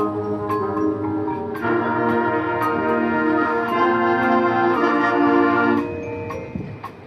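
Marching band playing held chords over mallet percussion such as marimba and glockenspiel. The band swells about a second and a half in, then falls away near the end.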